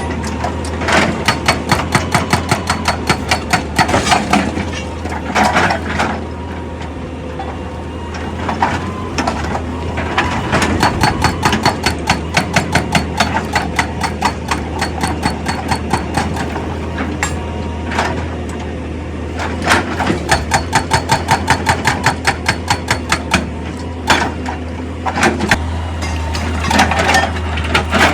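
Heavy machinery running with a steady low engine drone, broken by several bursts of rapid, even hammering at about five or six blows a second.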